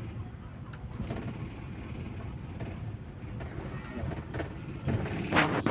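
Cabin noise inside a MAZ-215 articulated city bus: a steady low rumble of engine and road. About five seconds in, a sudden, louder rush of noise cuts in.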